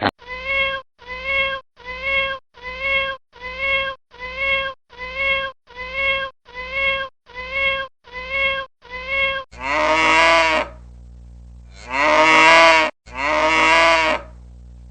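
An animal's pitched call repeated about a dozen times at an even pace, each call short and alike, then three longer calls that fall in pitch.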